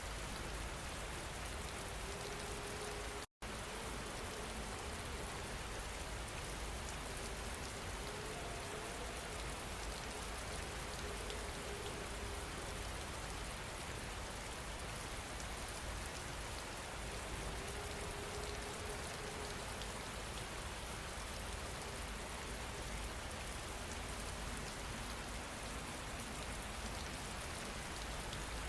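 Steady rain falling, an even hiss of drops, with a faint wavering tone coming and going underneath. About three seconds in, the sound cuts out completely for a split second.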